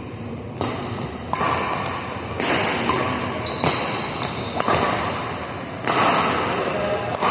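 Badminton play in an indoor hall: sudden racket-on-shuttlecock hits and thuds about once a second, over the noise of the hall.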